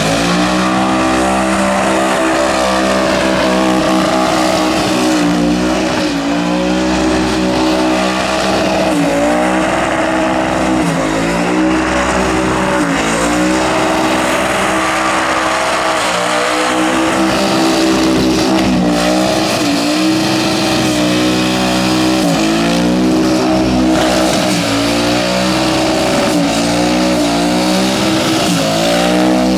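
Twin-turbo burnout car's engine revving hard, its pitch dipping and climbing back again and again every second or two, over the steady noise of tyres spinning and squealing on the pad.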